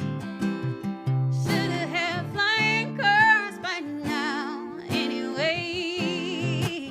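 A woman singing with a wide vibrato over picked acoustic guitar. The voice comes in about a second and a half in, pauses around four seconds in, and returns about five seconds in.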